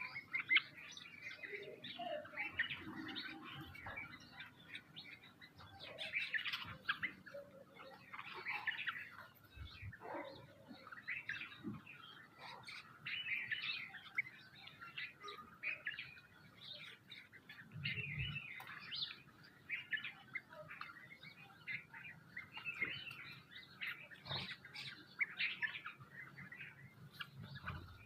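Several small birds chirping and calling in a dense, overlapping chatter without a break, with a couple of soft low thuds among them.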